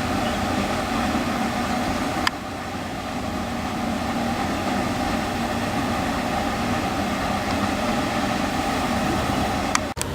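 Steady engine-like hum with a rushing noise, broken by a sharp click about two seconds in and another near the end.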